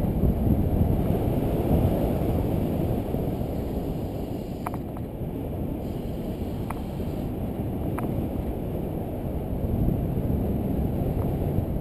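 Wind buffeting a GoPro camera's microphone: a steady low rumble, with a few faint ticks.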